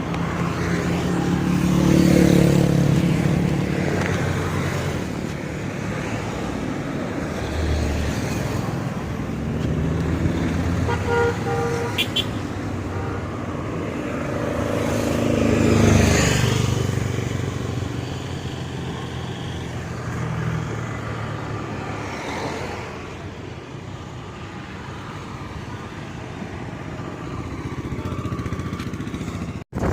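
Roadside traffic: vehicles and motorbikes driving past, swelling loudest as they pass a couple of seconds in and again about halfway, with a short horn toot about a third of the way in.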